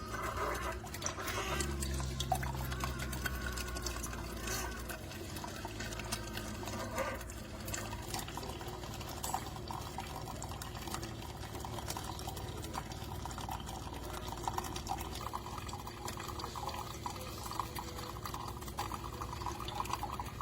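Keurig K-Supreme single-serve coffee maker brewing: a low steady hum for the first few seconds, then liquid streaming and dripping into a cup.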